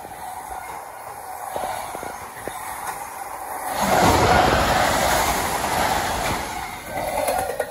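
Train rolling past, steel wheels on rail, with a few faint clicks early on; the rumble grows clearly louder about four seconds in and eases slightly near the end.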